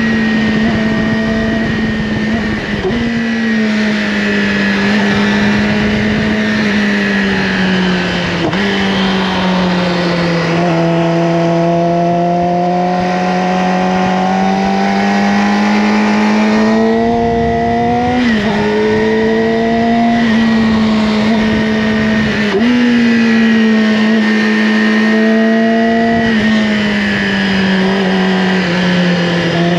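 Yamaha R6 inline-four engine with an Akrapovic slip-on exhaust, running under way with wind noise. Its pitch rises and falls steadily with throttle and jumps abruptly a handful of times at gear changes.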